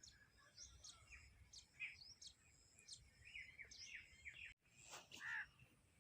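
Faint bird chirping: many short, high chirps in quick succession, broken off abruptly about four and a half seconds in, followed by a louder call that sweeps downward.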